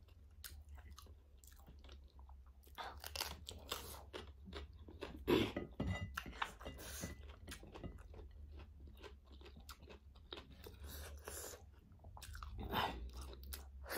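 A person chewing food, with crunchy bites; the chewing is loudest about five seconds in and again near the end.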